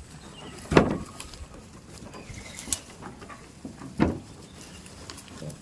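Two dull thumps about three seconds apart, with faint high chirps between them.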